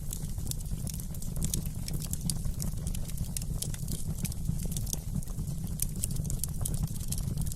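Wood fire crackling in a fireplace: many small irregular pops and snaps over a steady low rumble.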